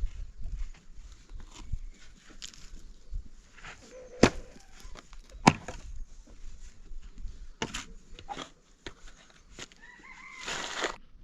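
Scattered sharp knocks and clicks, two of them louder about four and five and a half seconds in, then a short rooster crow near the end.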